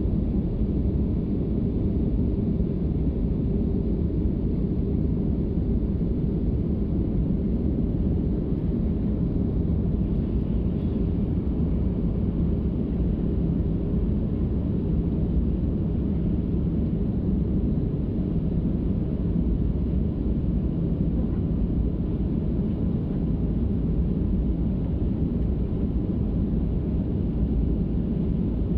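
Steady low drone of an airliner's cabin in flight, engine and airflow noise heard from a passenger seat during the descent toward landing.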